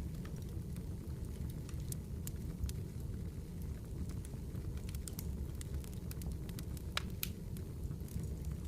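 Wood campfire crackling: frequent sharp pops scattered irregularly over a steady low rumble, with a couple of louder pops about seven seconds in.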